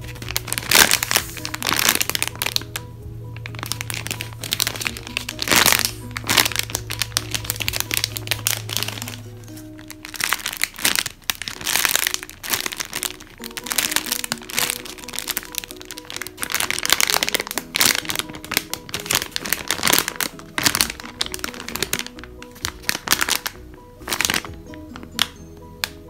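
Plastic packaging crinkling and crackling as squishy toys are handled, over background music.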